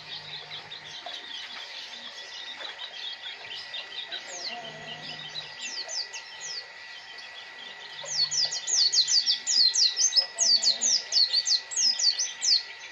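White-eye (pleci) singing: soft twittering for the first several seconds, then from about eight seconds in a fast, loud run of high, sharply falling chirps that lasts about five seconds.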